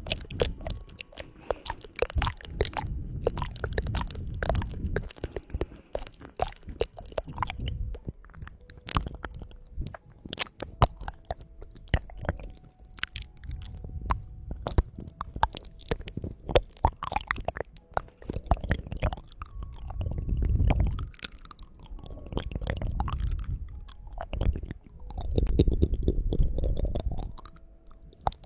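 Close-miked ASMR trigger sounds: a dense run of crisp clicks and crackles, with swells of low rubbing noise in the second half.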